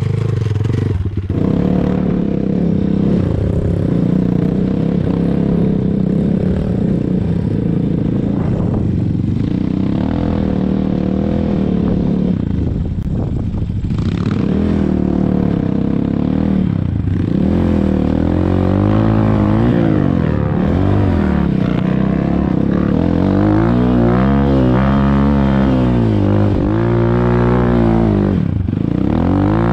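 Enduro motorcycle's single-cylinder four-stroke engine running close by, steady at first, then revved up and down repeatedly in the second half.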